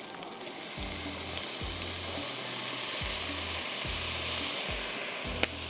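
Vegetables sizzling in a hot wok as soy sauce is poured in for a stir-fry: a steady hiss that grows gradually louder. One sharp click near the end.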